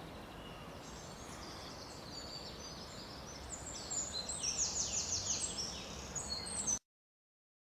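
Small songbird singing in woodland: quick runs of short, falling high notes that get louder in the second half, over a faint outdoor hush. The sound cuts off suddenly near the end.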